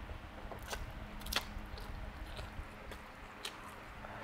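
A person chewing a mouthful of stir-fried instant noodles, with a few short, wet smacking clicks from the mouth.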